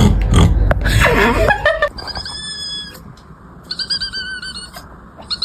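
A cat's odd vocalising. It opens with a loud, rough, noisy cry for about a second and a half. Then come high-pitched squeaky calls: a long steady one about two seconds in and a wavering one near four seconds.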